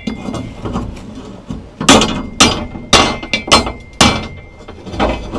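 Hammer striking steel rebar: lighter knocks at first, then about five sharp blows roughly two a second in the second half, each with a short metallic ring.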